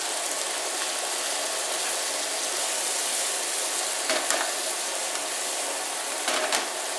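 Squid, mangetout and carrot sizzling in a hot non-stick frying pan while being stir-fried with a wooden spatula, with two short louder scrapes of the spatula, about four seconds in and near the end.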